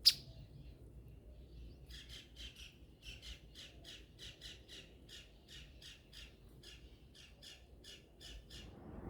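A bird calling a long, regular series of short harsh notes, about three a second, after a sharp click at the very start.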